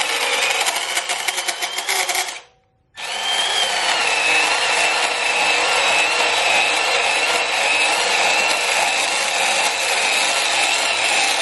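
Milwaukee M12 12-volt cordless band saw running and cutting metal stock: a steady motor whine over a rasping cut. The sound breaks off for about half a second around two and a half seconds in, then picks up again.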